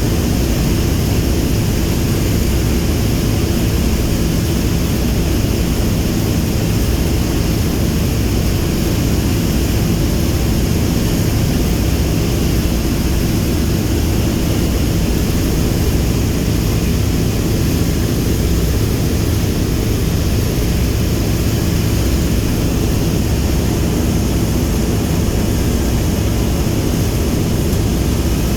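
Boeing B-17G Flying Fortress's four Wright R-1820 Cyclone nine-cylinder radial engines running with a steady, loud, deep propeller drone that does not change in level.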